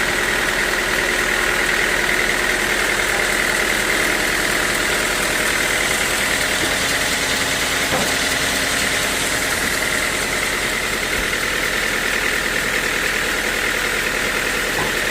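Sawmill machinery running steadily: a constant mechanical drone with a steady high whine.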